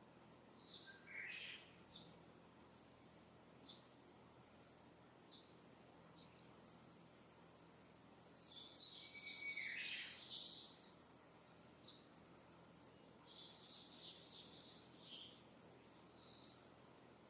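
Distant wild songbirds singing: short high chirps throughout, with a long, rapid high trill from about seven to twelve seconds in and again a little later.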